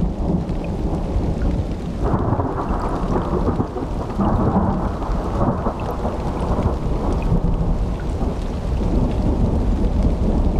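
Thunderstorm with steady rain and a continuous low rumble of thunder; the rumble swells about two seconds in and eases off a few seconds later.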